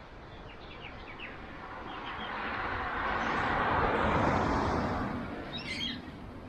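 Small birds chirping, while a rushing noise swells up, peaks about four seconds in and dies away again; a short bird call comes near the end.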